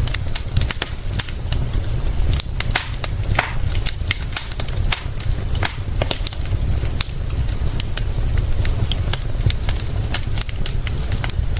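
Wood fire crackling, with dense, irregular sharp pops and snaps over a steady low rumble.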